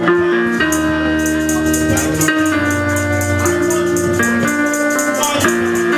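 Worship band music: an electronic keyboard in organ sound holding chords that change every second or so over a bass line, with a shaker-like percussion ticking a steady fast beat.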